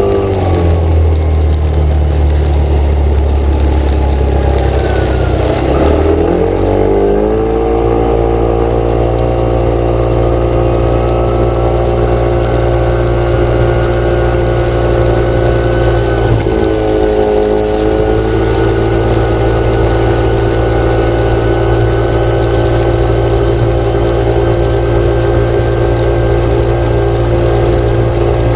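An engine running steadily. Its pitch falls and climbs back about a second to seven seconds in, then dips and recovers briefly again around seventeen seconds in.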